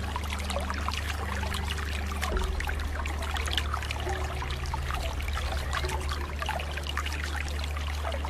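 Running water splashing and trickling steadily, over a low sustained drone.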